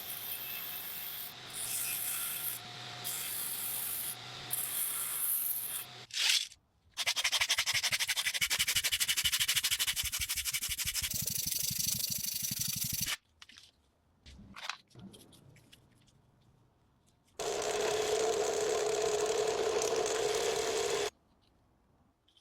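Abrasive work on metal: sanding and rubbing in several passes with short pauses between them. One long pass runs with a fast, even rhythm, and a later pass carries a steady hum under the scraping.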